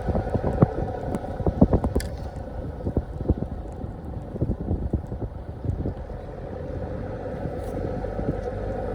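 Vehicle driving on a rough road: a steady low rumble with frequent knocks and rattles, which ease off about halfway through.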